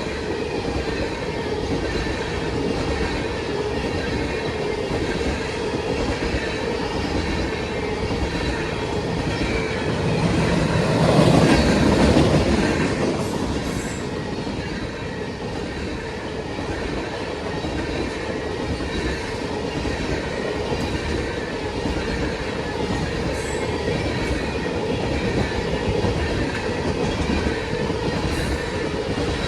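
Railroad cars rolling steadily past on the track, wheels clacking over the rail joints with some squealing from the wheels. The sound swells briefly about eleven seconds in.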